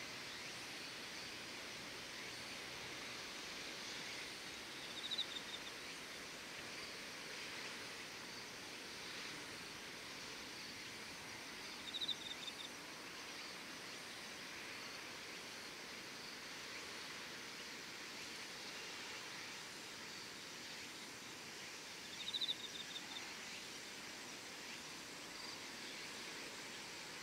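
Evening outdoor ambience: a steady chorus of insects, with three short, rapid chirping trills several seconds apart.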